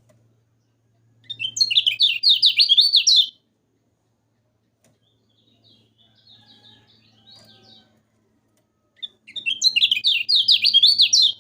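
Kecial kuning (yellow-spectacled white-eye) singing: two loud, rapid bursts of fast, repeated high chirping notes about two seconds each, one a second in and one near the end, with softer twittering between them.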